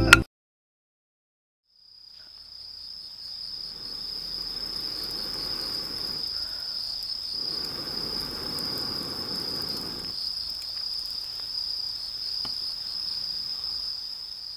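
Insects trilling steadily in one high, continuous note, fading in about two seconds in.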